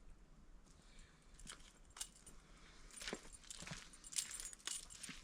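Faint, irregular metallic clinks and rattles of a chainsaw scrench being picked up and handled, with a few short knocks.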